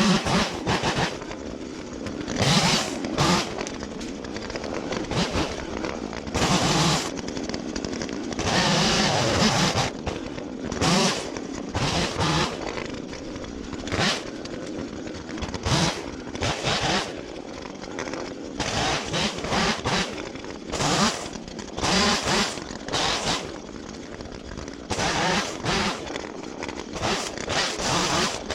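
Chainsaw limbing a felled spruce: the saw is revved up in short loud bursts, one every second or two, as it cuts through the branches, and drops back to a lower running sound between cuts.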